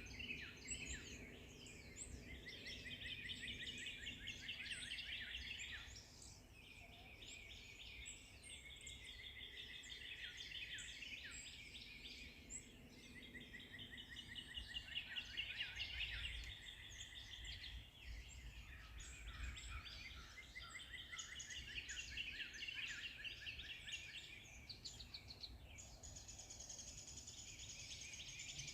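Forest songbirds singing together: many overlapping chirps and quick trills, over a faint low background rumble.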